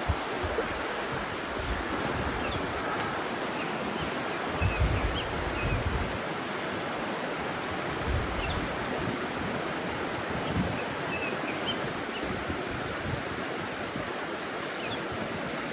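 Steady rushing of a small mountain stream, with a few brief low gusts of wind on the microphone.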